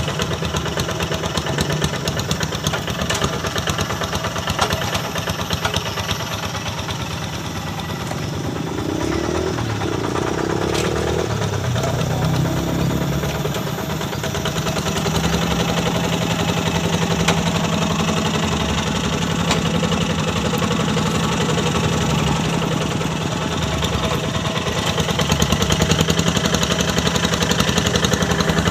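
Quick G1000 Boxer hand tractor's single-cylinder Kubota diesel engine running steadily while pulling a plough through a wet rice paddy, growing louder in the second half.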